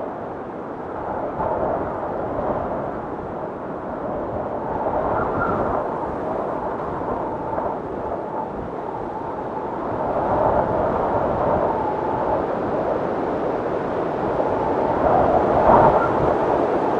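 Blizzard wind blowing in gusts, a rushing noise that swells and eases and grows stronger in the second half, with the strongest gust near the end.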